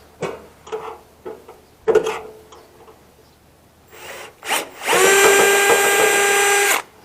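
Power drill used as a screwdriver to back out screws: a few short trigger pulses mixed with clicks of handling, then a steady whine for about two seconds near the end that cuts off suddenly.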